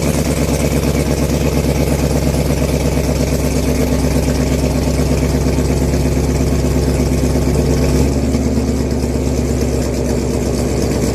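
2017 Chevrolet Camaro SS's 6.2-litre LT1 V8, running on E85, idling steadily after a cold start. About eight seconds in, the tone steps down slightly.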